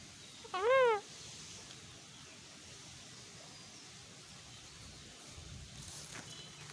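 A parrot gives one short call about half a second in, its pitch rising and then falling; after that only a faint background hiss.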